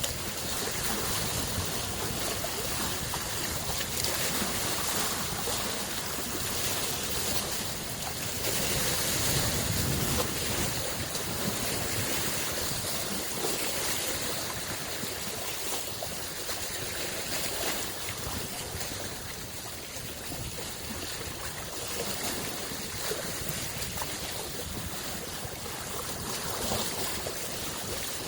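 Small lake waves washing against the shore: a steady rush of water that swells and eases every few seconds, loudest about nine seconds in.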